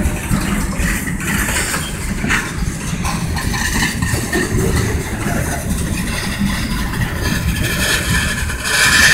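Freight train cars rolling past on the rails, a steady rumble with irregular clattering of wheels and couplers. It grows louder and harsher near the end.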